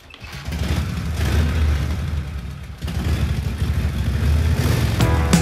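Car engine running with a low, choppy rumble, briefly dipping about three seconds in. Music with drum hits comes in near the end.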